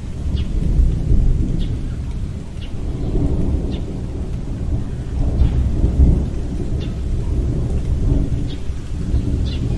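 Tornado-force wind: a deep, rumbling roar that swells and eases in gusts, with faint ticks about once a second.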